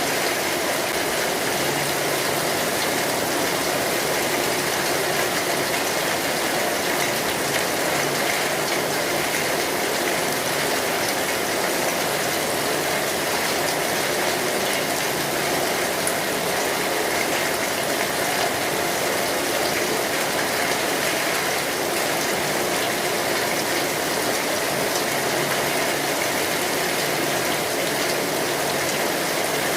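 Steady rain drumming on a metal roof, a dense, even patter of drops, with faint crackles from a wood fire mixed in.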